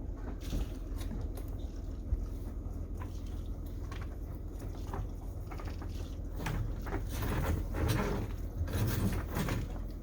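Knocks, clunks and rustling of dock lines and deck gear being handled aboard a sailboat, over a steady low rumble, the handling getting busier in the last few seconds.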